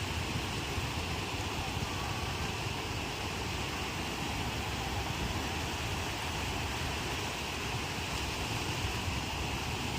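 Ocean surf breaking in a steady, unbroken wash, with a low rumble of wind on the microphone.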